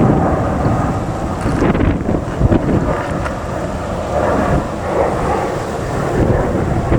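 Jet airliner engine noise, a loud low rumble, with wind buffeting the microphone.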